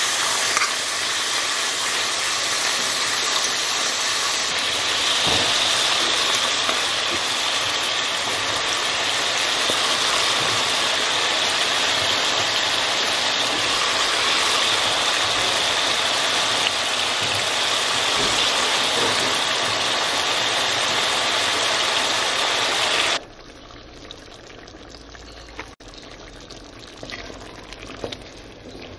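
Sausages and onions sizzling in hot fat in an enamelled cast-iron pot, a loud steady hiss. About three-quarters through it drops suddenly to a quiet simmer with a few soft clicks of a wooden spoon stirring diced tomatoes.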